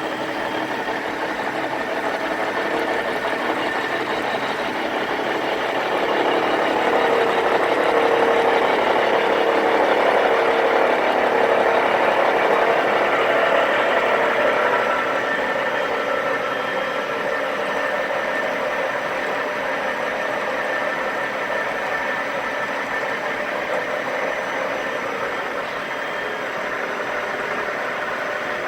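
CNC milling machine running a program: steady machine noise from its spindle and drives, with some steady tones mixed in, growing louder for several seconds in the middle.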